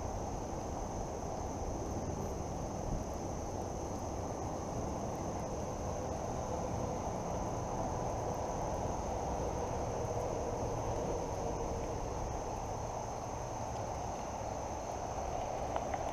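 Steady high-pitched insect chorus that does not change, over an even rushing of fast creek water and a low rumble.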